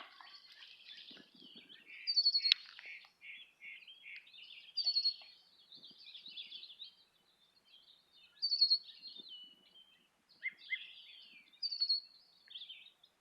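Red-winged blackbird singing: one short high phrase repeated four times, about every three seconds, with fainter chattering calls between.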